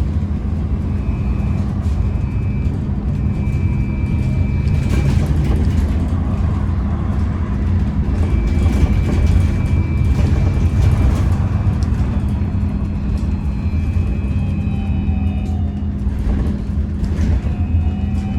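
Inside a moving MAZ-203T70 trolleybus: a steady low rumble of the running vehicle, with the electric traction drive's high whine coming and going in stretches and shifting slightly in pitch later on.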